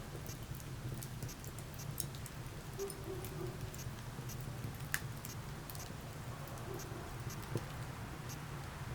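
Wood fire crackling: scattered small pops and snaps over a steady low rumble, with one sharper pop about five seconds in.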